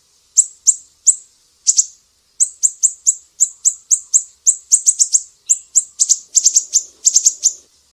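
Sumatran siri-siri bird singing a fast series of sharp, high, downward-sweeping notes, about three or four a second. After a brief pause about two seconds in, the notes come quicker and in close pairs, then stop just before the end.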